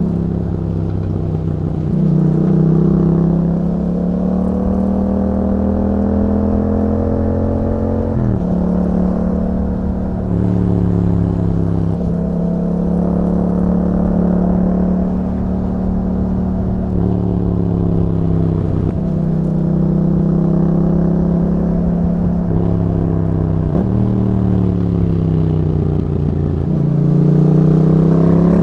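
2021 Yamaha MT-07's parallel-twin engine through an Akrapovic exhaust with a dB killer, running under load. The engine note rises and falls repeatedly, with abrupt breaks in pitch every few seconds as the throttle opens and closes.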